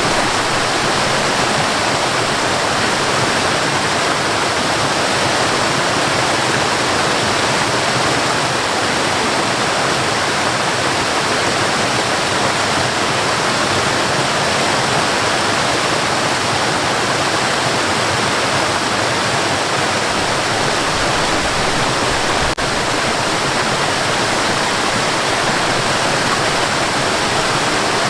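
Waterfall rushing steadily, a loud, even roar of falling water, with one momentary dip in level about three-quarters of the way through.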